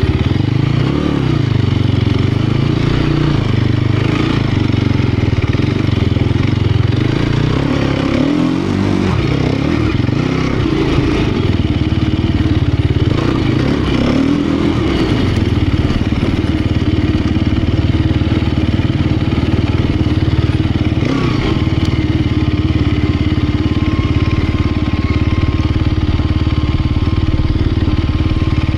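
Sherco 250 SEF Factory enduro motorcycle's single-cylinder four-stroke engine running, the revs rising and falling through roughly the first half, then holding steadier in the second half.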